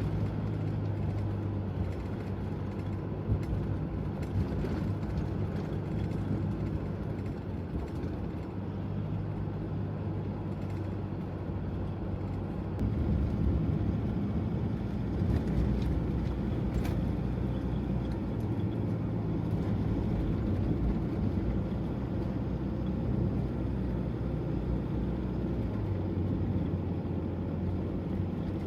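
Toyota HiAce van being driven, a steady low engine and road rumble whose engine note shifts a little under halfway through and again near the end.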